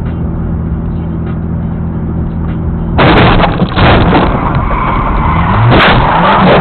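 A road vehicle's engine running at a steady speed. About three seconds in, a sudden loud, rough rush of noise takes over, with a couple of sharp knocks and the engine's pitch rising and falling.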